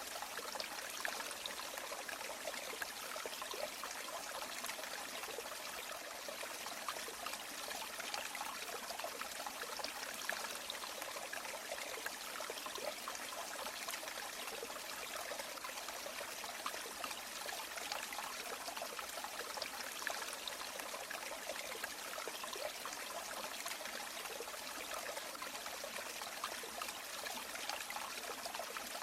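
River water flowing steadily, a dense, even trickling and splashing with little deep rumble.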